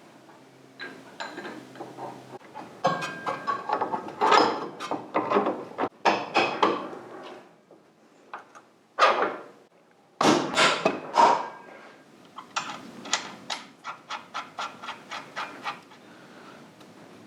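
Workshop clatter of tools and metal parts being handled: irregular knocks and clicks, with a run of even clicks at about four a second near the end.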